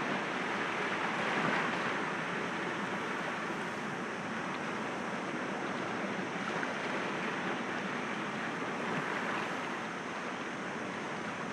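Sea waves breaking gently against rocks: a steady wash of surf that swells a little about a second in and again near the end.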